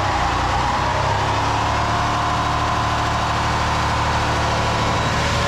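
Supercharged V8 of an early-2000s Ford SVT Lightning pickup running steadily, with an even engine drone that stays at much the same pitch and loudness.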